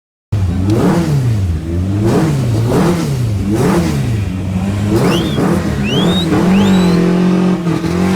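A car engine revved up and down over and over, about once a second, then held at a steady high rev near the end. A few short high chirps come in around the middle.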